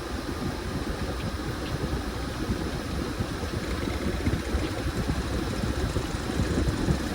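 Washing machine running a load of towels: a steady low churning from the turning drum, growing slightly louder toward the end.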